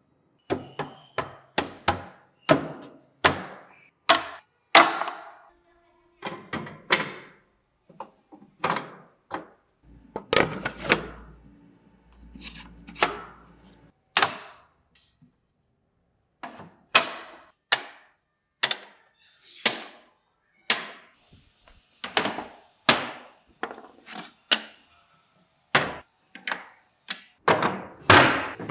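Irregular series of sharp knocks on wood, about one or two a second, as the pieces of a wooden body are struck while being fitted together.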